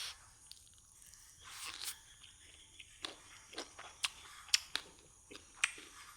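A person biting and chewing food close to the microphone. Short, sharp crunchy clicks come irregularly and grow more frequent in the second half, with a soft hiss of breath or mouth noise about a second and a half in.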